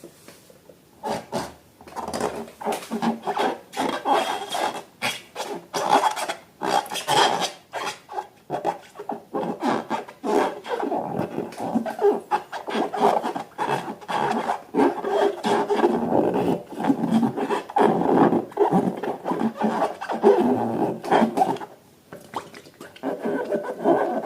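Hands rubbing, squeezing and crackling balloons and slime: an irregular, continuous rasping with many small crackles.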